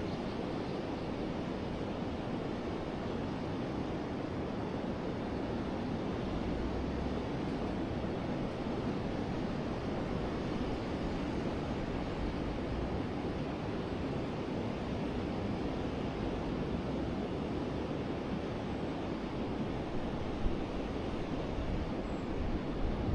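Steady rush of a flowing river, with low gusts of wind on the microphone about six seconds in and again near the end.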